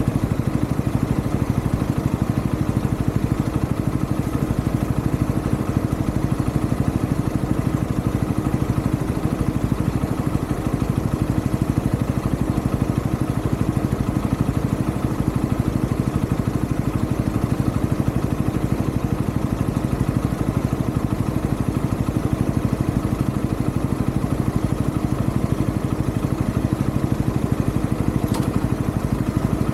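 UM Renegade Commando 125 motorcycle's 125 cc engine running steadily while riding, with an even, fast low pulse and no change in pitch. A brief faint click near the end.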